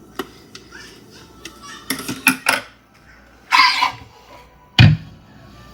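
Kitchen clatter of pots and utensils: a scattering of sharp clicks and knocks, a short scrape about three and a half seconds in, and one heavy thump near the end, the loudest sound here.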